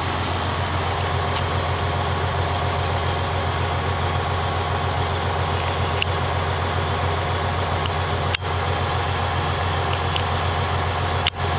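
Truck's diesel engine idling steadily with a constant low hum, warming up after sitting shut off for hours in the cold. The sound drops out for an instant twice in the second half.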